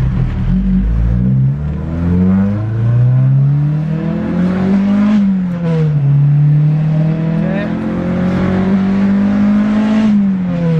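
Car engine pulling under acceleration, its pitch climbing and then dropping sharply twice as it shifts up through the gears.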